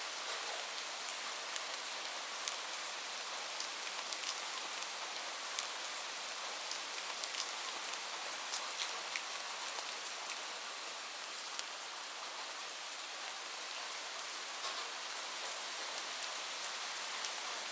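Steady rain: an even hiss of falling rain with individual drops ticking sharply here and there.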